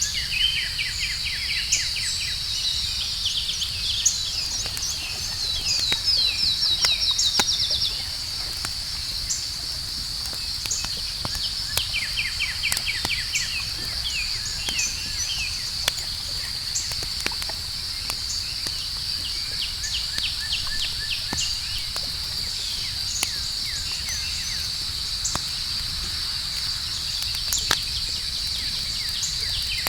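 Outdoor campfire crackling with scattered sharp pops and a low rumble, over a steady high chorus of night insects. Bursts of fast trilling calls come and go; the loudest is a few seconds in, and it stops at about eight seconds.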